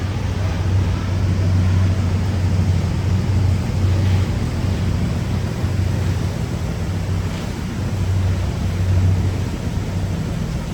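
Boat engine running with a steady low drone, under a broad rushing hiss of water and wind.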